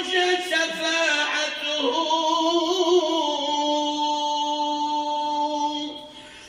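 Male voice singing an Islamic devotional supplication (ibtihal) in an ornamented, melismatic line. It settles on one long held note that fades away about six seconds in.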